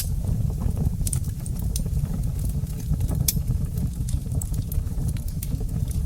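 Wood fire crackling in a brick fireplace: a steady low rumble of burning with frequent irregular sharp pops and snaps, one louder pop about three seconds in.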